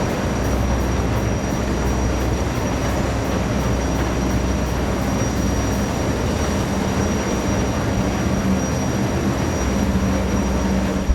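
Jetfoil Seven Island Yui's gas turbine engines running steadily: a loud, even rush over a low hum, with a thin high whine held throughout.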